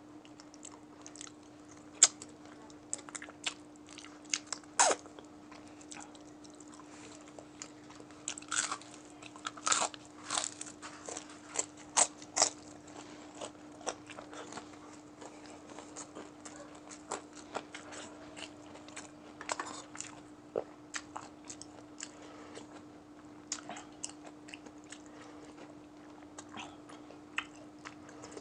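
Close-miked chewing and crunching of crispy fried chicken neck and rice: irregular sharp crunches and mouth clicks, loudest in the first half, over a faint steady hum.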